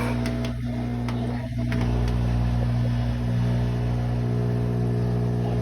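Brastemp BWK12 12 kg washing machine running with a steady, loud hum and buzz before the spin starts. This is the noise the owner ties to the drain pump.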